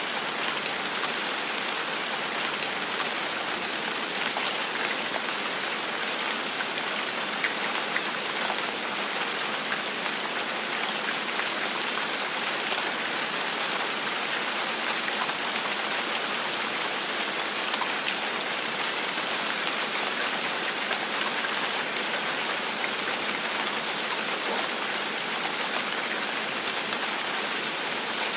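Steady, gentle rainfall, falling as an even hiss with scattered individual drop taps on a surface.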